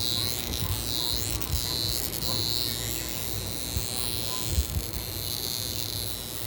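A small electric facial-care device running with a steady buzz.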